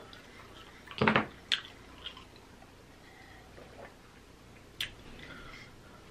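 Close-miked mouth sounds of a person chewing seafood-boil food: quiet chewing with a few sharp wet mouth clicks, and one short louder mouth sound about a second in.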